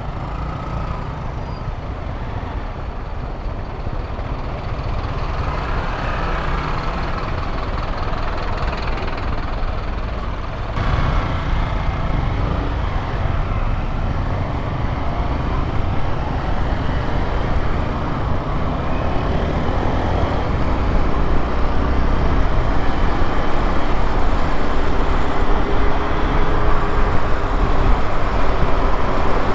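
Honda XRE 190 motorcycle's single-cylinder engine running on the move, its pitch drifting up and down with the throttle, under a heavy rumble of wind and road noise. The sound grows steadily louder, with a sudden shift about eleven seconds in.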